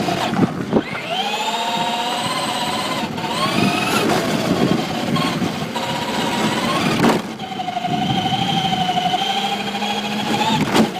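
Electric motor and geartrain of a Traxxas Raptor SVT 2wd short-course RC truck whining as it accelerates in several rising bursts, then holding a steady whine at speed. A few sharp knocks come from the truck hitting the pavement.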